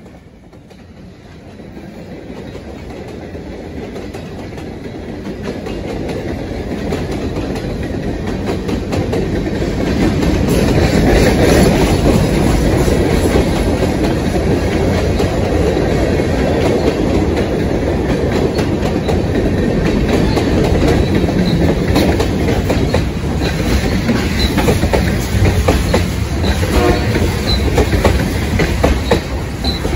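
Diesel-hauled freight train approaching and passing, growing steadily louder over the first ten seconds. A long string of hopper cars then rolls by, the wheels clicking over the rail joints, with a few short wheel squeals near the end.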